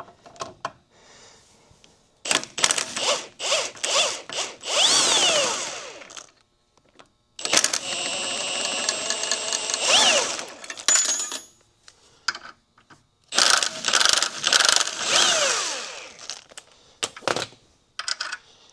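A handheld power driver running in three bursts of a few seconds each, each ending in a falling whine as it spins down, with a few short clicks in between: nuts being run off a U-bolt.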